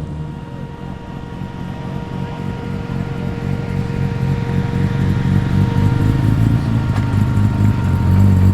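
Performance car engines running at low speed as cars roll in. One engine grows steadily louder toward the end as it approaches.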